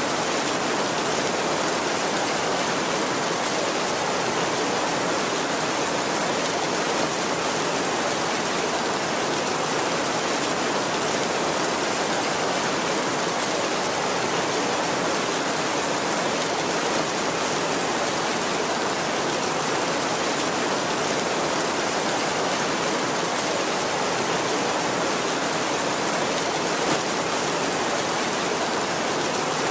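Heavy rain falling steadily on a tin roof, a dense, even hiss with no thunder.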